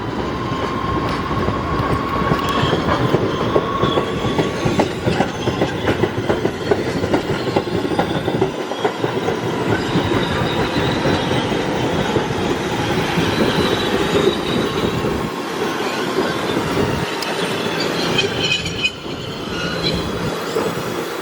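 Staten Island Railway subway-type train running on the rails at close range, its wheels clattering continuously, with a thin wheel-squeal tone rising and fading at times.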